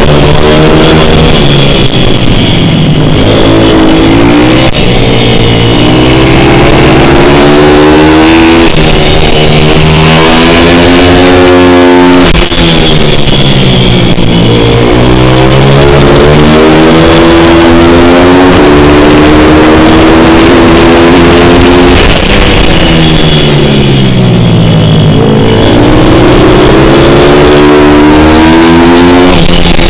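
Single-cylinder pit bike engine revving hard under load, its pitch climbing in steps and then diving twice as the rider backs off for a corner, each time winding back up.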